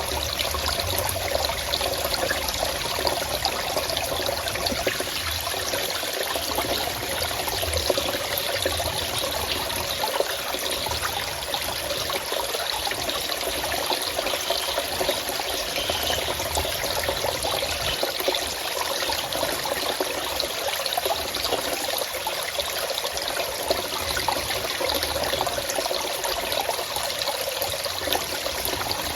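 Running water, a steady trickling flow that goes on without a break.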